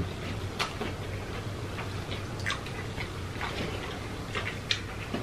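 Close-up mouth sounds of people chewing sandwiches: a few scattered wet smacks and clicks of lips and tongue.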